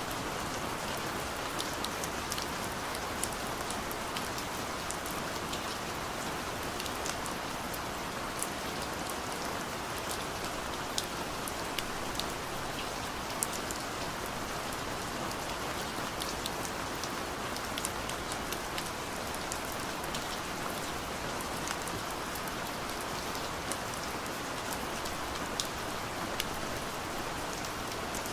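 Steady rain falling on a car, heard from inside the cabin, with single drops ticking sharply here and there.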